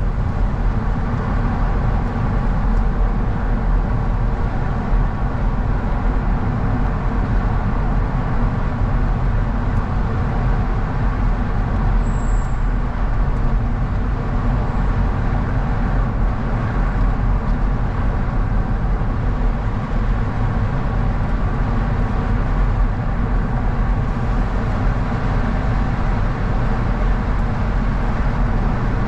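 A car driving at a steady pace, with even engine and tyre rumble from the road and no change in speed.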